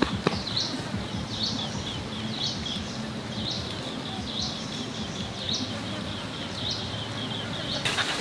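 A bird calling over and over with short, high chirps, roughly one a second, over a steady low background noise.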